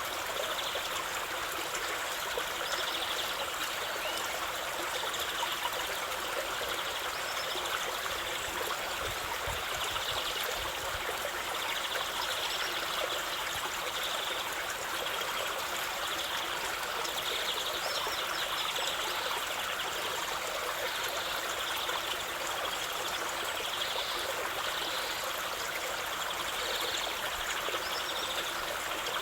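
Steady running water of a flowing stream, an even, unbroken trickle and rush.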